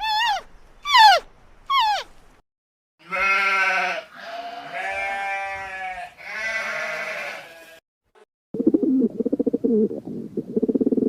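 Three long, wavering bleats from a sheep or goat-type animal, each about one to one and a half seconds. Before them come a few short falling calls about a second apart. After them, from about 8.5 s, a low rasping sound made of rapid pulses takes over.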